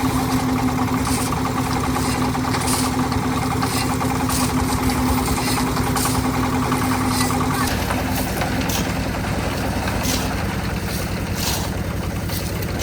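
Engine-driven concrete mixer running steadily, with a change in its tone about eight seconds in and scattered short clicks over it.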